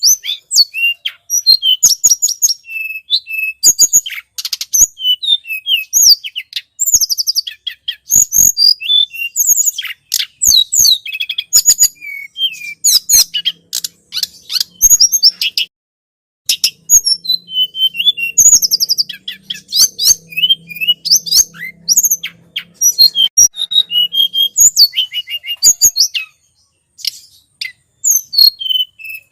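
Tledekan gunung bird song for luring: rapid, high chirps and trilling phrases, delivered almost without pause, with two short breaks partway through and near the end.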